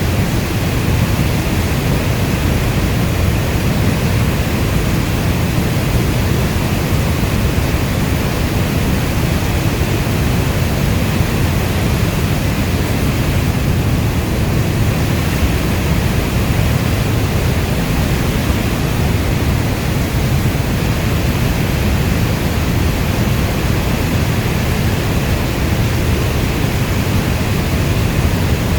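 Steady rainfall: a dense, even hiss, heavier in the low end, with no thunder or drops standing out.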